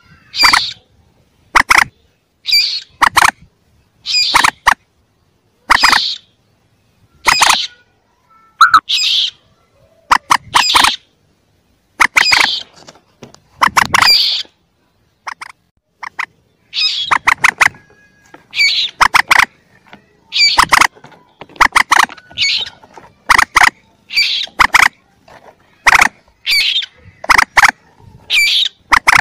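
Recorded calls of young common moorhens, played as a hunting lure: short, sharp call notes in tight clusters, repeating about every second and a half with silence between.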